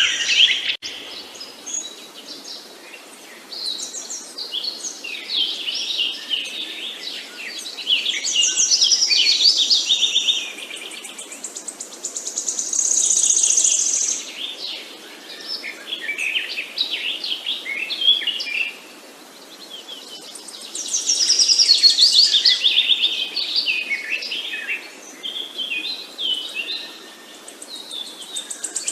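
Several songbirds chirping and trilling together, high-pitched calls overlapping in waves that swell and fade every few seconds, over a faint steady hiss.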